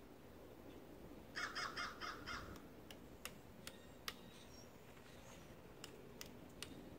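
Woodpecker giving a harsh call of about six quick notes, about a second and a half in. Then come scattered single sharp taps, a few per second at most.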